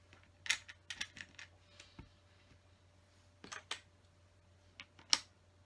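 Small plastic LEGO pieces clicking and tapping as they are handled and pressed onto the build: a scatter of sharp clicks, a quick run of them in the first second or so and the loudest about five seconds in.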